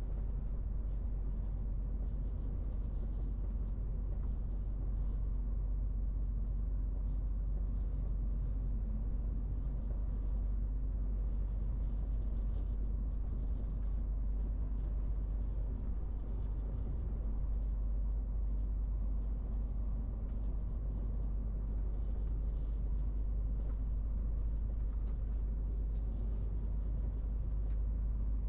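MAN TGX 18.470 truck's 12.4-litre straight-six diesel running steadily, a deep even drone with no change in pitch or level.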